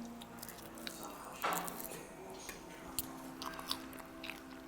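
Close-up biting and chewing of crispy chicken wings, with sharp crunches. The loudest crunch comes about a second and a half in.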